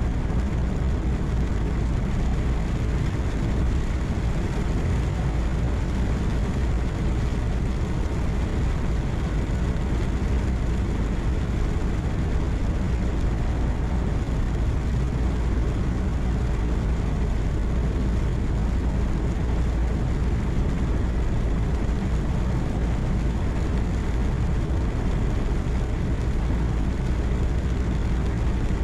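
Steady low engine drone and road noise inside a truck's cab while cruising, even throughout with no distinct events.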